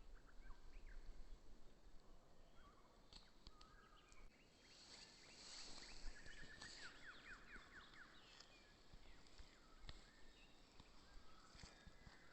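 Faint birdsong: several small birds chirping and calling, with a quick trill of repeated notes about five to seven seconds in, over a low background hum.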